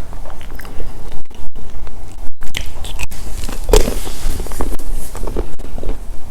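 Close-up biting and chewing of Milka chocolate snacks, with many small irregular crackles and clicks of the mouth and food, one bite louder than the rest a little past the middle.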